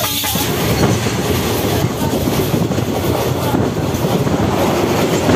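Passenger train running at speed, heard from inside the coach: a loud, steady noise of wheels running on the rails.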